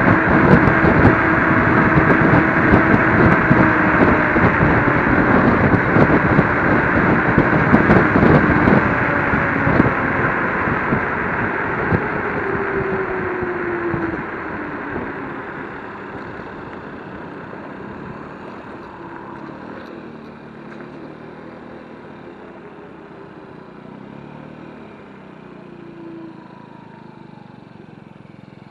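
Electric scooter riding at speed: wind buffets the microphone over a steady motor whine. The whine falls in pitch about ten to thirteen seconds in as the scooter slows, and the rushing noise dies away to a quiet background.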